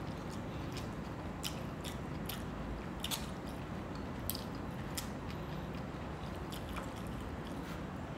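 Close-up eating sounds of people chewing fried fish and rice by hand, with scattered short, sharp mouth clicks and smacks at irregular intervals.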